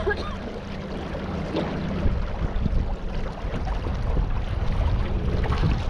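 Boat moving along the river: a steady low hum, with wind rumbling on the microphone that grows stronger about two seconds in.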